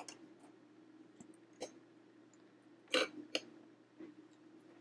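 A few light plastic clicks and taps as a Lego model is handled and turned, a louder pair of clicks about three seconds in.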